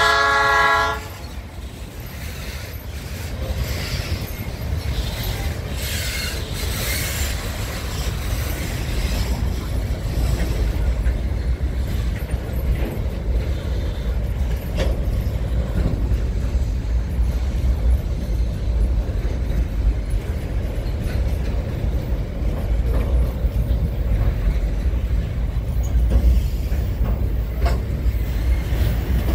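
Diesel freight train horn sounding a held chord that ends about a second in. Then a long freight train of loaded gondolas and container flat cars rolls steadily past, its wheels rumbling with occasional clicks over the rail joints.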